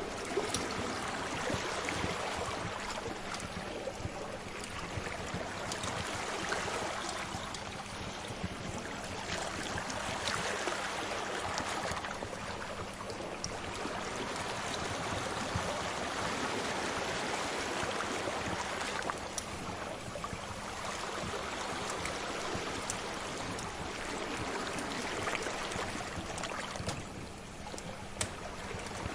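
Sea waves washing in slow swells that rise and fall every few seconds, with the scattered small pops and crackles of a fire.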